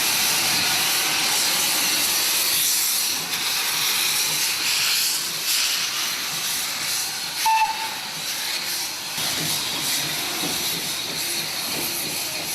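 Steam hissing steadily from a small Andrew Barclay 0-4-0 steam locomotive, loudest in the first three seconds, with a brief whistle toot about seven and a half seconds in.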